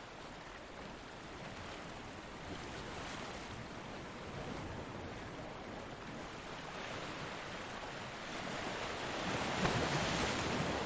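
Ocean waves breaking on a beach: a steady wash of surf that swells into a louder wave breaking near the end.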